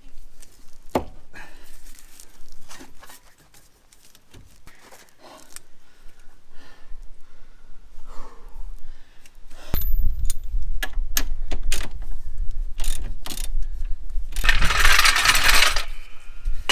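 Metal parts and tools clinking and tapping as a strut's lower mounting bolt is worked toward its hole. A low rumble joins about ten seconds in, and a harsh scraping noise lasts about a second and a half near the end.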